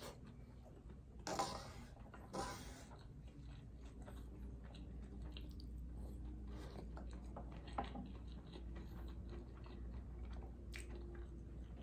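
Close-miked chewing and mouth sounds of a person eating rice and braised tofu, with small irregular wet clicks. There are two louder bursts about a second and two seconds in, over a faint steady low hum.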